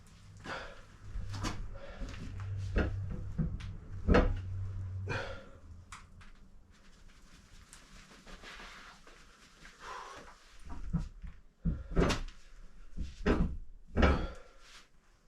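A series of sharp knocks and clunks, irregular and a second or two apart, like hard objects being handled or set down. A low steady hum runs under the first five seconds or so, then fades.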